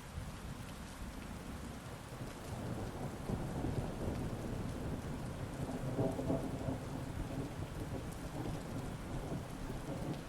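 Heavy rain falling steadily while a roll of thunder builds a couple of seconds in, rumbles loudest around the middle, and slowly fades.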